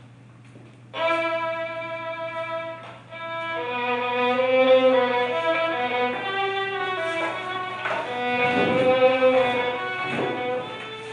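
Violin music starting about a second in, playing slow, held notes that change pitch every second or two, over a steady low hum.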